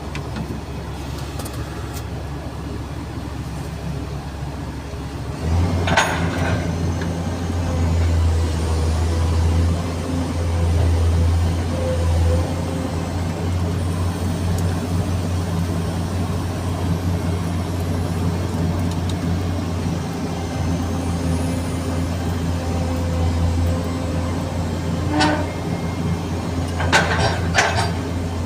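Komatsu PC200-7 excavator heard from inside its cab: the six-cylinder diesel engine runs with a steady low drone that rises and grows louder about five seconds in as the machine takes load, with a faint steady whine over it. A few short knocks sound about six seconds in and again near the end.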